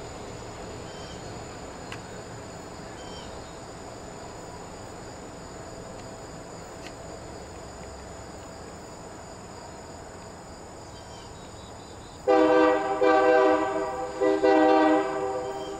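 Locomotive air horn sounding two blasts near the end, a long one and then a shorter one, several notes together in a chord. Before it there is only a steady low background hiss with a few faint insect chirps.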